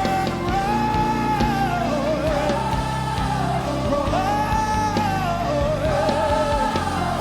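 Rock-style song: a singer holds long, arching phrases over a full band with a steady drum beat.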